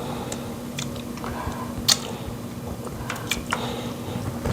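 Close-up eating sounds of fish and soup: scattered sharp mouth clicks and soft wet smacks while chewing, over a faint steady hum.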